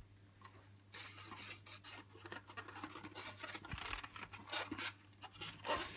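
Polystyrene packing and cardboard box scraping and rubbing as an upright vacuum cleaner is worked out of its box. It starts about a second in, as a run of irregular scratchy rustles.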